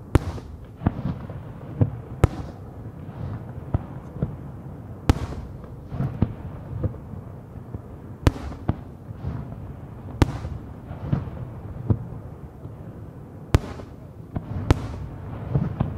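Aerial firework shells bursting in quick succession, a sharp bang every second or two, with a low rumble of echoes between them.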